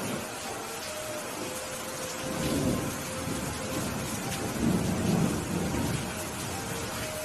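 Steady rain falling, with thunder rumbling low twice: once about two seconds in and again, louder, around the fifth second.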